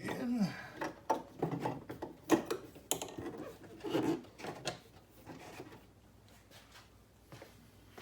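A string of light clicks and knocks from metal parts and bolts being handled during reinstallation of a motor mount. The clicks thin out about five seconds in.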